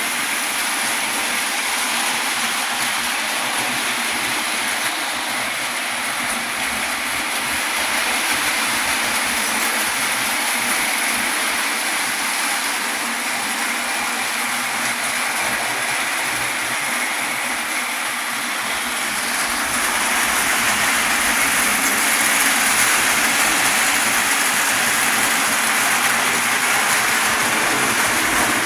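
Pre-war Lionel tinplate toy train running on its track, a steady mechanical running noise that grows louder about two-thirds of the way through.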